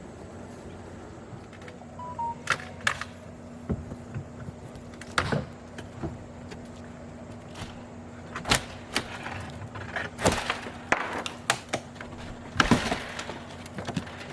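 Irregular knocks, clunks and scrapes of an old window being pried and pulled out of its frame, coming thicker in the second half with longer scraping near the end, over a steady low hum.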